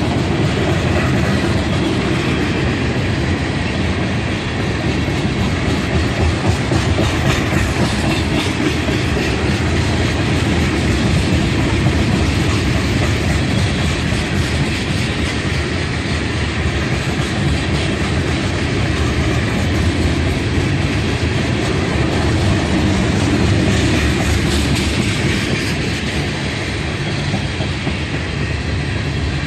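A train rolling steadily past, its cars rumbling and steel wheels clicking over the rail joints.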